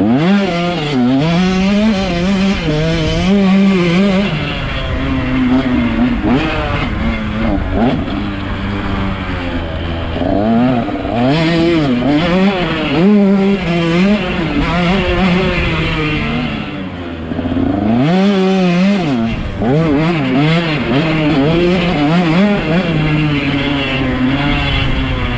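125 cc motocross bike engine revving up and down again and again as it is ridden hard around a track, its pitch rising and falling with throttle and gear changes. It eases off briefly about two-thirds of the way through, then climbs again.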